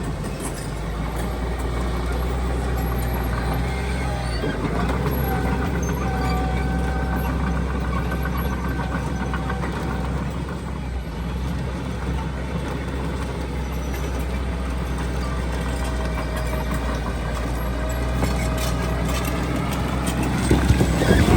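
Heavy diesel earthmoving machinery running steadily, with a louder stretch of metallic knocks near the end.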